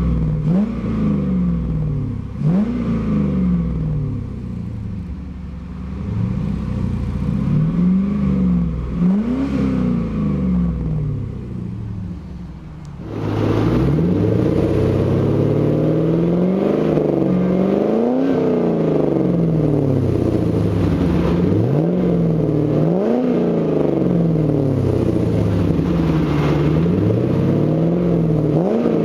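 A 2000 Chevrolet Camaro SS's 5.7-litre V8 with a custom dual exhaust being revved in repeated blips from idle, each rev climbing and dropping back. About thirteen seconds in, the sound abruptly gets louder and fuller, and the blips keep coming about every one and a half seconds.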